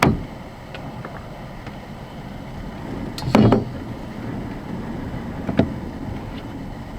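Strong wind rumbling steadily around a parked campervan. A dull thump comes about three seconds in, and a single sharp click a little past halfway.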